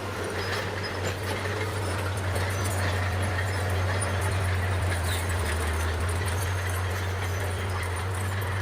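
Bulldozer's diesel engine running steadily with a low hum, under a rattling, clattering noise of the working machine.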